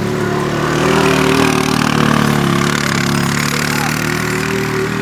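Quad (ATV) engine running steadily at mid revs as it tows a kart, its pitch and loudness rising slightly about a second in.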